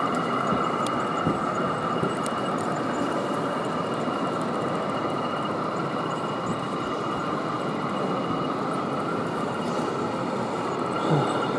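Model train running on an exhibition layout: a steady rumble with a thin high whine that stops about eight and a half seconds in, over the steady background noise of the exhibition hall.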